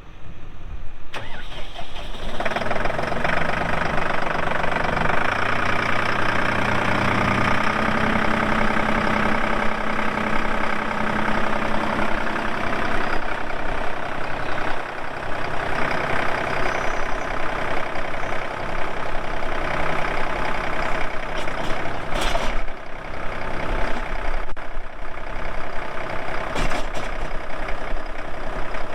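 The 2014 Massey Ferguson 4608 tractor's four-cylinder diesel engine starting up about two seconds in, then running steadily.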